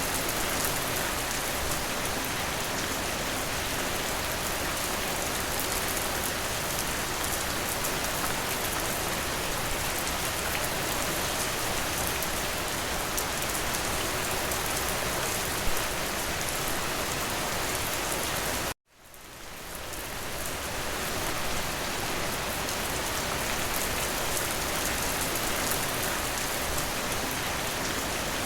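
Steady, even rain. About two-thirds of the way through it cuts out abruptly to silence and fades back in over a couple of seconds, like the seam of a looped recording.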